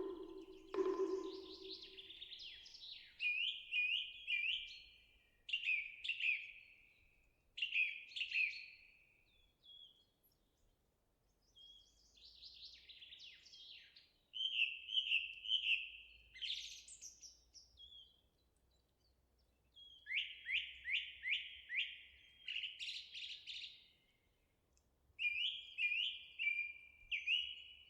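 A songbird singing phrases of quick, repeated descending chirps, each phrase lasting a second or two with short pauses between. In the first second a bell's low ringing fades out.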